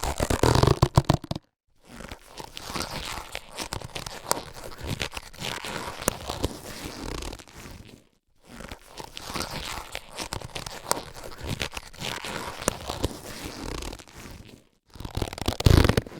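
Latex surgical gloves being handled, with crackly rubbery rubbing and crinkling. There is a louder burst about a second long at the start and another near the end, and two longer stretches of rubbing between them, broken by short pauses.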